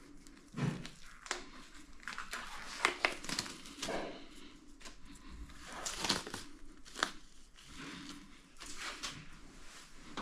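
Irregular crinkling, tearing and scraping of materials handled close to the microphone, with sharp clicks and taps scattered throughout.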